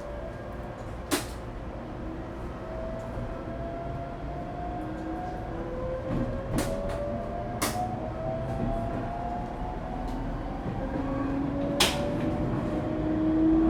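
Echigo TOKImeki Railway ET127 series electric train heard from inside the car as it pulls away and picks up speed. The Toyo GTO-VVVF inverter whine rises in pitch in several steps over the low running noise of wheels and motors. There are a few sharp clicks, the first about a second in and the last near the end.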